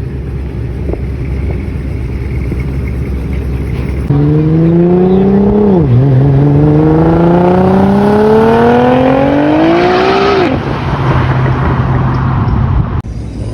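Car engine running with a low rumble, then a car accelerating hard: its engine note climbs, drops sharply at a gearshift about six seconds in, climbs again and falls away. A steadier, lower engine note follows before the sound cuts off abruptly.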